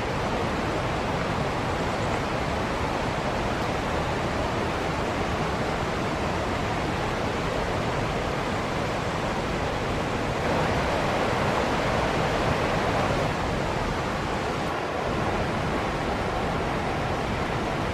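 Waterfall: water falling and splashing in a steady, dense rush that swells a little in the middle.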